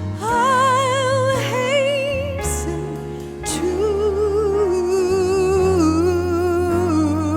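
Worship song: a solo voice singing long held notes with strong vibrato over sustained low accompaniment chords, stepping down to a lower line about halfway through.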